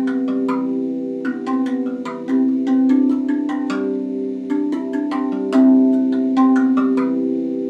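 RAV Vast steel tongue drum played by hand: many quick struck notes, several a second, each ringing on and overlapping the next.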